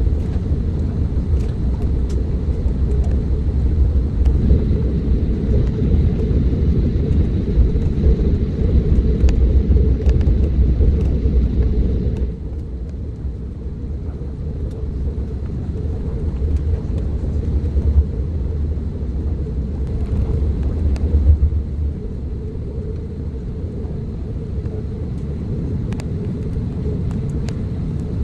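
Airbus A330-900 airliner heard from inside the passenger cabin: a steady low rumble with a faint high whine. The rumble eases about twelve seconds in, and its deepest part fades out near the end.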